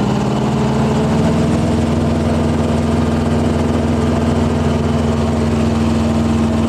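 Helicopter engine and rotor running at power as the aircraft is lifted into a hover: a loud, steady hum whose main tone climbs slightly in the first second, then holds.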